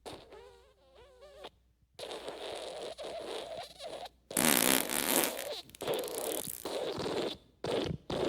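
A string of fart sound effects: a wavering, squeaky one for the first two seconds, then long raspy ones, the loudest about four seconds in, and near the end a quick run of short ones.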